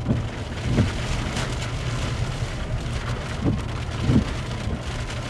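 Rain falling steadily, with a few short thumps of heavier drops striking close by and a steady low hum underneath.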